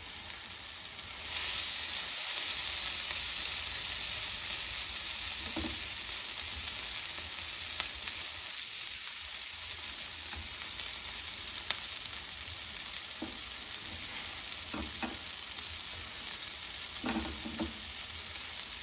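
Black-chickpea kabab patties sizzling in a little hot oil on a non-stick tawa as they are laid down one by one. The sizzle steps up about a second in and then holds steady, with a couple of faint clicks.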